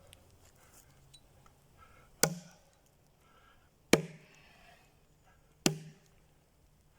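Axe chopping into a wooden log: three heavy strikes about a second and a half apart, each a sharp whack with a short ring.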